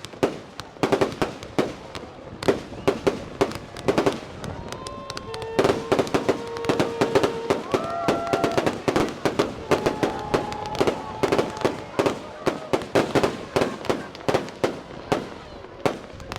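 Fireworks going off in a rapid, continuous barrage: sharp bangs and crackles, several a second without a break, with a few held tones sounding in the middle.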